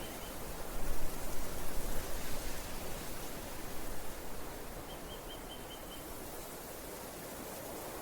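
Outdoor natural ambience: a steady hiss, louder and rougher for the first few seconds. About five seconds in, a quick run of about six short high notes sounds from some animal.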